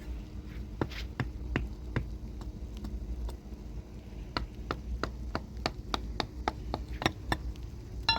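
Knife chopping on a cutting board: a regular series of sharp chops, about three a second, ending in a ringing clink.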